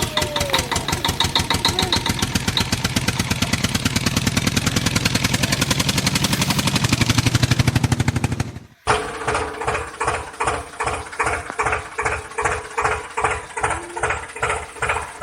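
An engine running with a fast, even beat that grows louder. About nine seconds in it cuts off abruptly and gives way to a slower pulsing engine-like sound, about two or three beats a second.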